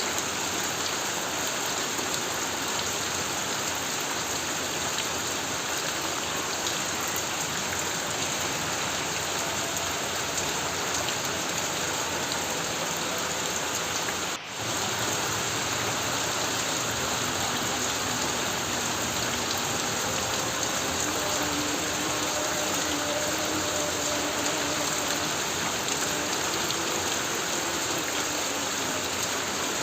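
Heavy rain pounding on a corrugated tin roof: a steady, dense downpour that drops out for a moment about halfway through.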